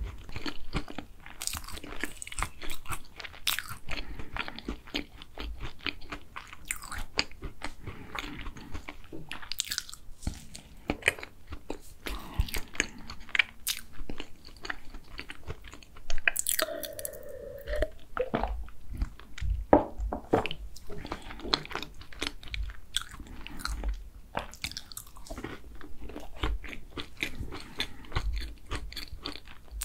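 Close-miked chewing of a blueberry cheese tart, with crisp crunches and sharp crackles as the pastry crust breaks between the teeth.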